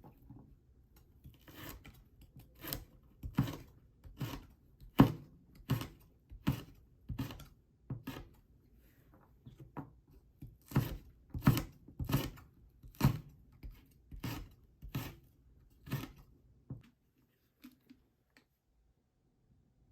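Food being cut in slow, even strokes, about one every three-quarters of a second. The strokes pause for a couple of seconds midway, then die away with a few faint ones near the end.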